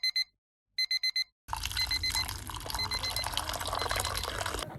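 Electronic alarm clock beeping in quick groups of four high beeps. About a second and a half in, a loud rushing noise begins, and the beeps carry on faintly beneath it in regular groups.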